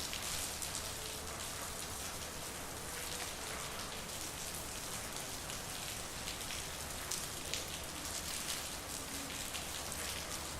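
Steady rain falling on a street, with many individual drops clicking close by on hard surfaces.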